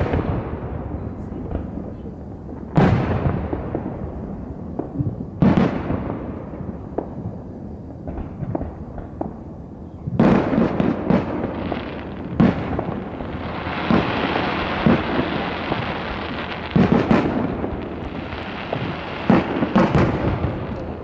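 Aerial fireworks display: about seven loud booms of shells bursting a few seconds apart, with a dense crackle of crackling-star effects through the second half.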